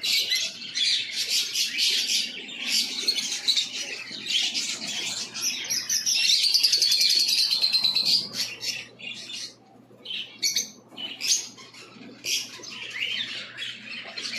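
Many caged birds chirping and squawking together, with one loud rapid trill running for about two seconds in the middle and a brief lull after it.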